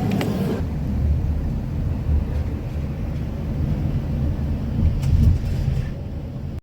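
A steady low rumble with little above it, with a few faint clicks about five seconds in.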